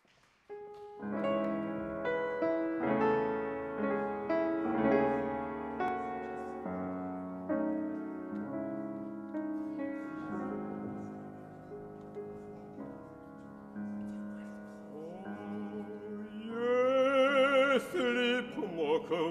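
Piano introduction to a Russian romance, played as sustained chords. About 16 seconds in, an operatic singer comes in with strong vibrato over the piano.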